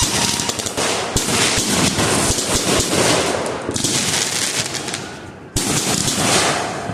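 Fireworks going off in a dense, rapid run of cracks and crackling that dies down over about five seconds. A fresh loud burst of crackling then starts suddenly and fades.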